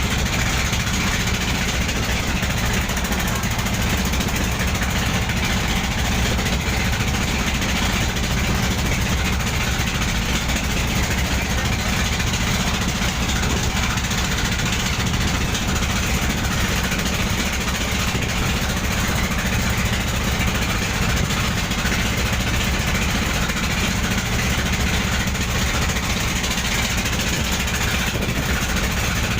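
Boat engine running steadily at a constant speed, a low rumble with a broad churning noise over it that does not change.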